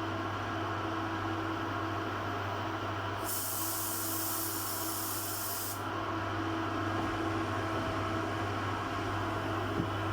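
A steady machine hum with several fixed tones, and about three seconds in a sudden burst of compressed-air hiss lasting about two and a half seconds that stops abruptly.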